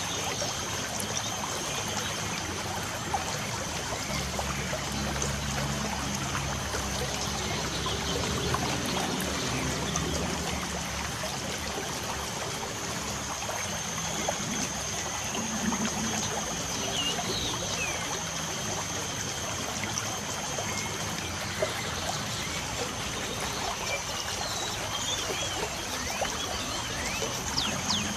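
Light rain falling, with steady trickling and many small drips and patters. A few brief bird chirps come through around the middle and again near the end, over a steady high-pitched drone.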